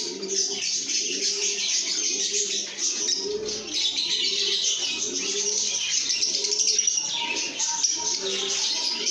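A flock of lovebirds chirping and chattering continuously in a dense, high twitter. A lower call repeats about every half second to second underneath.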